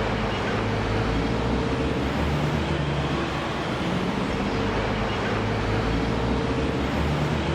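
Steady drone of street traffic or vehicles running, with a low hum and a faint steady tone that fades out for a couple of seconds and then returns.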